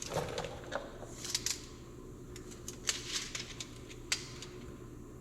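Scattered light clicks and taps of hand work, over a steady low background hum.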